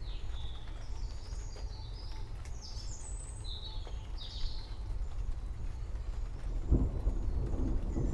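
Birds chirping in short high calls over a steady low rumble. About two-thirds of the way in, a roll of thunder begins and builds louder.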